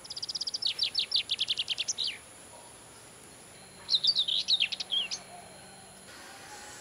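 A songbird singing two phrases. The first is a fast run of repeated high chirping notes lasting about two seconds. After a pause comes a shorter, more varied phrase about four seconds in.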